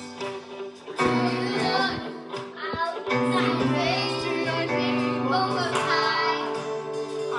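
Worship music: a voice singing held, wavering notes over instrumental accompaniment, swelling louder about a second in.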